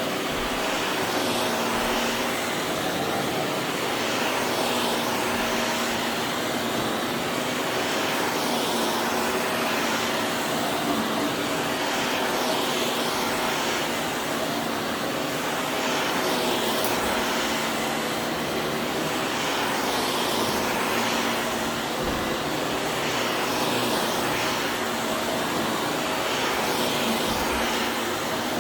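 Vacuum cleaner running steadily with a constant motor whine, the noise swelling and easing slightly as it is pushed back and forth.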